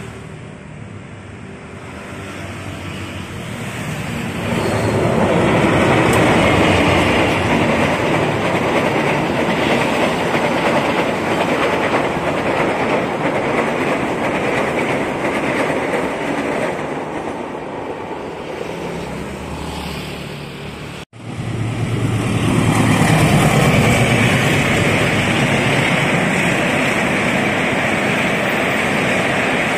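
Passenger train passing close by: the rumble and rattle of its wheels on the rails builds over the first few seconds and then holds loud and steady. About two-thirds through there is an abrupt cut, followed by another passenger train passing with the same wheel-on-rail noise.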